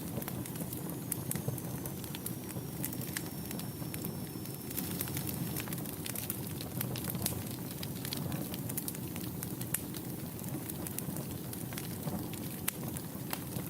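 Wood fire burning in a fireplace: a steady low rumble of flames with frequent sharp crackles and pops. About a second in, a faint high whistle slides down and holds for about four seconds.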